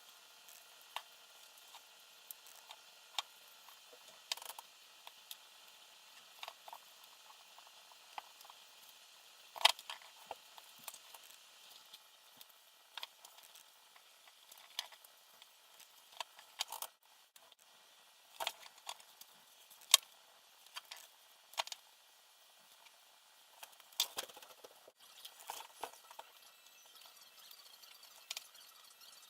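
Faint, irregular clicks, taps and light rattles of small parts and tools being handled during assembly work. The sharpest clicks come about ten and twenty seconds in.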